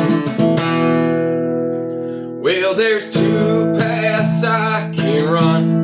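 Acoustic guitar strummed, a chord left ringing and slowly fading, then a voice starts singing over the guitar about two and a half seconds in.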